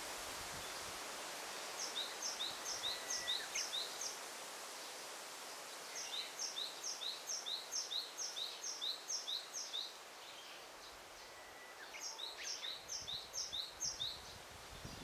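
A small songbird singing a repeated two-note phrase, a higher note then a lower one, about four times a second, in three runs of a few seconds each, over a steady hiss of forest ambience.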